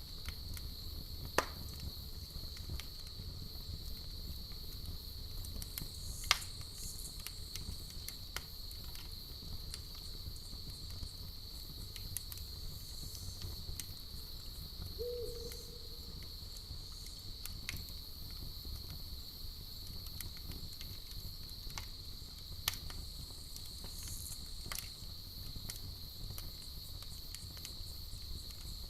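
Campfire crackling, with sharp pops every few seconds over a low steady rumble of the flames, and crickets chirping in a continuous high-pitched trill. One brief low tone sounds about halfway through.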